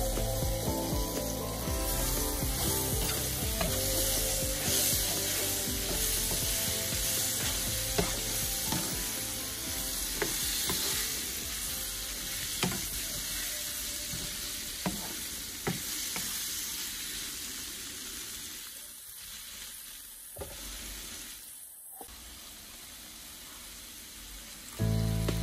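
Soya meat chunks frying in oil in a pan, sizzling steadily as a spoon stirs them, with scattered knocks of the spoon against the pan. The sizzle grows quieter over the last several seconds.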